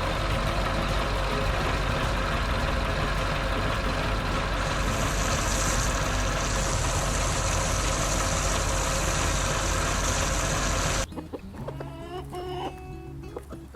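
Cartoon tractor engine sound effect running steadily and loudly, then cutting off suddenly about eleven seconds in. After it stops, chickens cluck over light background music.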